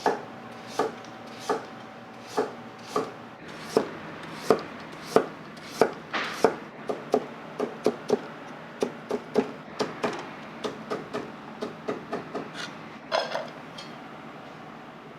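Kitchen knife chopping on a wooden cutting board. The strokes come steadily at first, about one every 0.7 s, then faster in quick runs, ending with a louder knock near the end.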